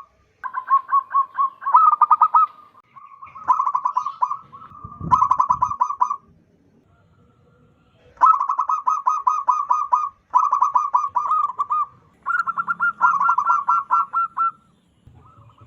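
Zebra dove (perkutut) song: phrases of rapid, short staccato coos, each phrase lasting one to two seconds and repeated several times, with a pause of about two seconds just past the middle. A brief low rumble sounds under the song about five seconds in.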